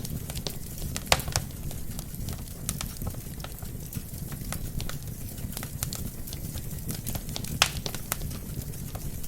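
Wood fire burning in a fireplace: a steady low rumble of flames with irregular crackles, and two sharp pops, about a second in and near the end.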